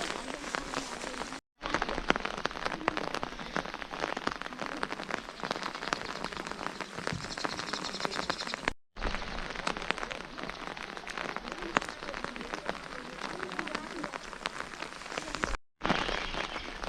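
Steady rain falling and pattering on surfaces, a dense hiss of many small drop impacts. It cuts out to silence for a moment three times, about a second and a half in, near the middle, and near the end.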